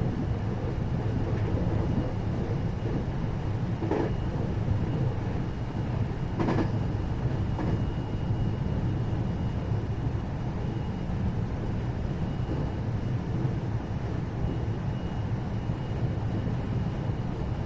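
Running noise inside the motor car of a 521 series electric train: steady rumble of wheels on rail with a faint steady high whine, and a few short knocks from the rails about four and six and a half seconds in.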